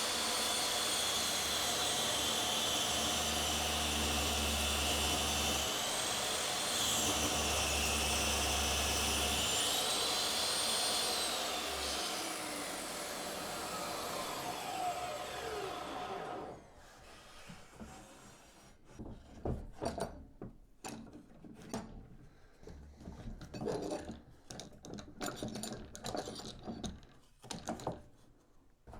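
Table saw running and ripping an edge off a softwood strip held in a jig, the motor's pitch sagging while the blade is in the wood. About twelve seconds in it is switched off and the blade winds down over some four seconds, followed by light knocks and clicks of wood being handled.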